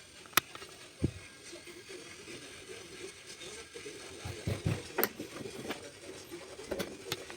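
Scattered clicks and knocks of hand tools and metal parts during work on a car's front suspension. A sharp click comes about half a second in, a dull thump about a second in, and a cluster of knocks a little before the end.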